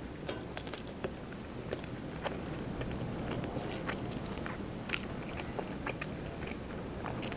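Close-up chewing of a bite of shawarma with Korean-style carrot, with scattered soft crunches and wet mouth clicks.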